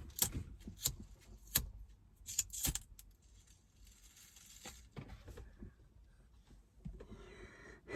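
Small hard objects being handled: a string of sharp clicks and light rattles in the first three seconds, then a faint hiss.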